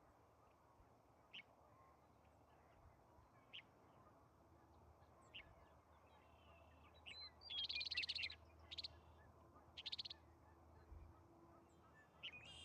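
Birds calling outdoors: short calls of quick, rattling notes every second or two, loudest and busiest about seven to nine seconds in, over a faint steady background.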